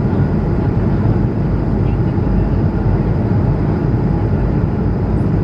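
Steady cabin noise of an Airbus A220-100 airliner in flight, heard from inside the passenger cabin: an even, low, loud rush of engine and airflow noise.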